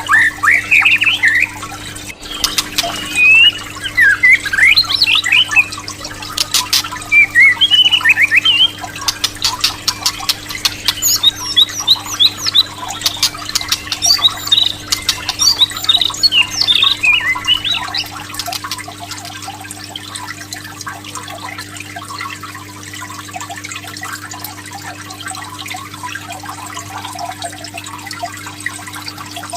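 White-rumped shama (murai batu) song: loud whistled rising phrases, then a fast run of clicking chatter. About eighteen seconds in the song drops away to a quieter, steady patter of trickling water with faint chirps.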